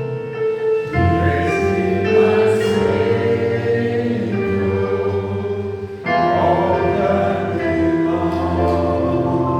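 Gospel worship music: a choir of voices singing sustained chords over a low accompaniment, with new chords coming in about a second in and again about six seconds in.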